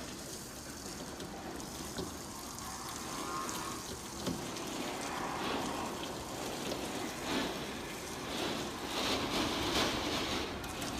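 Strong wind and rain during a storm: a continuous rushing noise that swells and eases in gusts, growing louder in the second half.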